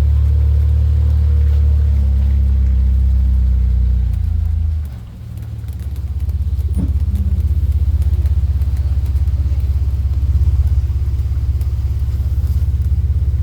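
A vehicle's engine running with a steady low hum; about four to five seconds in it drops away briefly and changes note, then comes back as a fast, even pulsing rumble.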